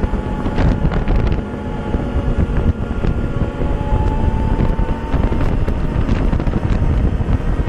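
Sandstorm wind buffeting the microphone, with a vehicle's engine and road noise underneath while driving. A faint steady whine runs through the middle.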